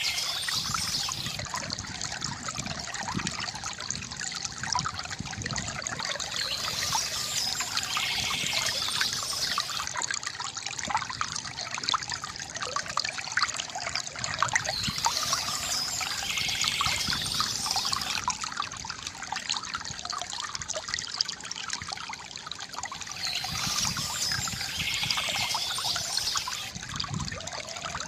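Water from a bamboo fountain trickling and splashing into a basin in a steady, dense patter of small drips and splashes. A brief higher sound comes back about every eight seconds.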